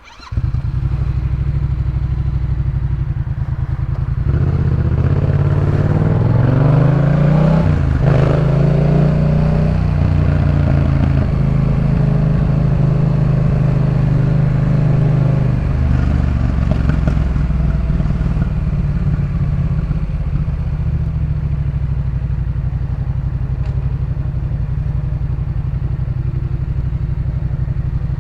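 Yamaha MT-07's parallel-twin engine running through a Jeskap K4 full aftermarket exhaust: it cuts in suddenly about half a second in and idles, is revved up gradually and back down between about four and ten seconds in, blipped again more lightly around sixteen seconds, then settles back to a steady idle.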